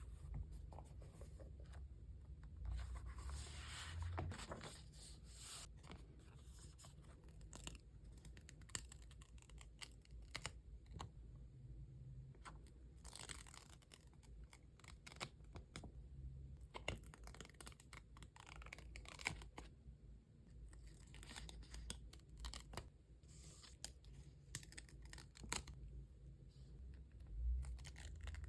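Stickers being handled and peeled off their backing, with many small clicks and crinkles and several longer peeling sounds.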